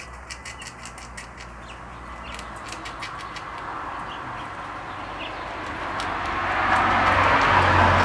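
A passing vehicle: a swell of engine and tyre noise that builds over several seconds and is loudest near the end.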